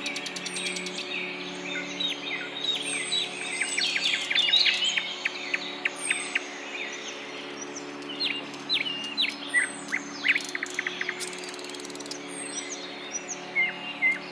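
Morning chorus of several bird species: a dense mix of quick chirps and trills, with a high, falling whistle call repeated about once a second. A steady low hum runs underneath.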